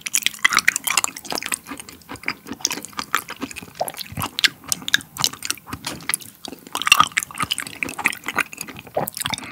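Close-miked chewing of raw beef liver: a dense run of small wet clicks and squelches as the soft, crisp-textured liver is bitten and worked in the mouth.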